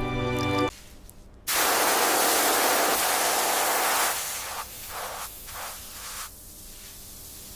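Hiss of a spray or air blast on the metal: one long blast of about two and a half seconds, then several short bursts.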